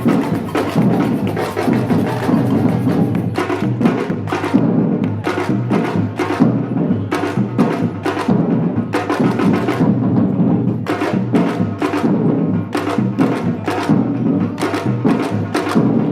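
Batucada samba percussion group playing: many drums beating a dense, steady rhythm, with sharp high strikes on top.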